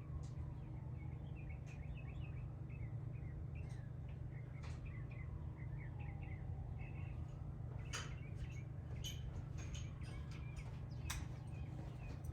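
Small birds chirping in quick, repeated short calls over a steady low hum, with a few sharp clicks about two-thirds of the way in and again near the end.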